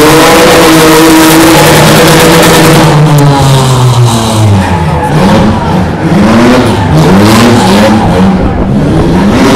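Smart car fitted with a BMW engine, driven hard and loud: the engine revs up, holds, drops away, then revs up and eases off several times in quick succession, and climbs again near the end.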